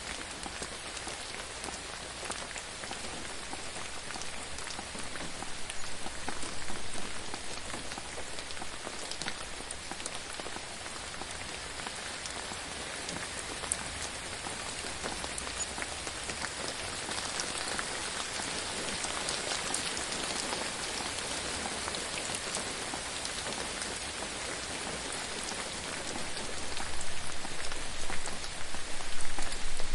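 Steady rain falling on a surface, a dense patter of individual drops, getting heavier briefly about six seconds in and again near the end.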